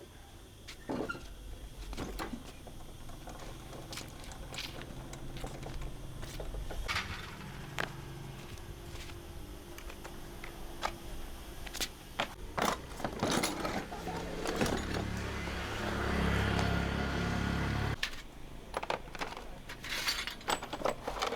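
Repair work on metal parts: scattered clinks, knocks and scrapes of hand tools. A motor runs steadily for about three seconds past the middle, then cuts off suddenly.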